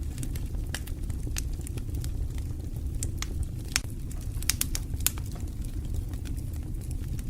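Fire in a fireplace crackling: sharp pops and snaps at irregular intervals over a steady low rumble of the flames.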